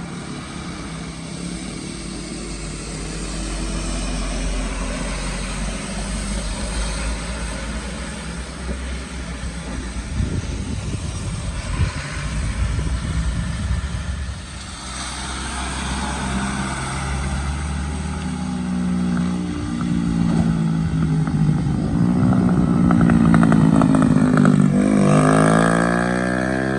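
Motor vehicle engines running on a road, with one engine rising in pitch and getting louder as it revs up over the last few seconds.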